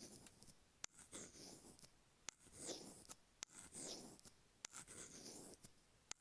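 Stainless steel ear pick scraping along the rough grooves of an iPhone earphone microphone, heard close through that microphone: slow gritty strokes about once a second, each marked by a small sharp click.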